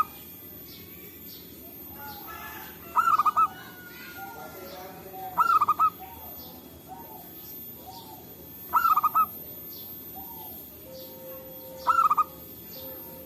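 Zebra dove (perkutut) cooing: four short, quick staccato phrases about three seconds apart, with fainter calls of other birds and a steady hiss underneath.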